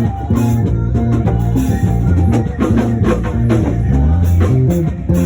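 Instrumental band music with bass guitar, guitar and drum kit playing a steady groove.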